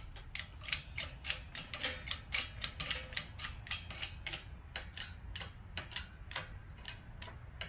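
Rapid sharp clicking, about three to four clicks a second, from a ratcheting hand tool being worked while pressing a new trunnion into an LS roller rocker arm.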